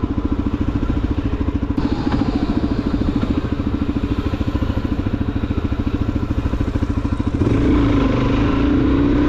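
Suzuki DR-Z400SM's single-cylinder four-stroke engine on its stock exhaust, pulsing evenly at low revs. About seven and a half seconds in it gets louder as the revs rise.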